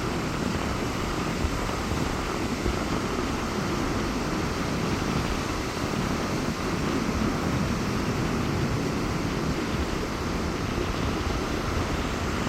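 Rough sea surf washing steadily onto the beach in strong wind, an even rushing noise with heavy wind rumble on the microphone.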